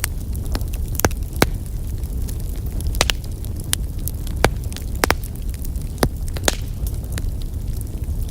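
Wood fire burning in a fireplace: a steady low rumble of the flames with irregular sharp crackles and pops, several louder ones scattered through.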